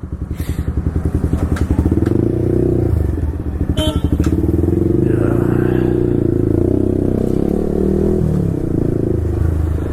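Yamaha R15 V4's 155 cc single-cylinder engine through an Akrapovic full-system exhaust, heard from the saddle while riding. Over the first two seconds it pulls up from low revs with a pulsing note. It then settles into a steady drone as the bike cruises, with a brief click about four seconds in.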